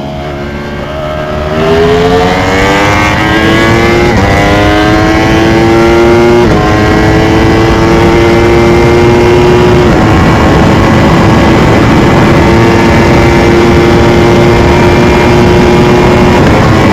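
Sportbike engine accelerating hard at full throttle. Its pitch climbs and drops at three quick upshifts, then holds steady at high revs at speed, over loud wind rush.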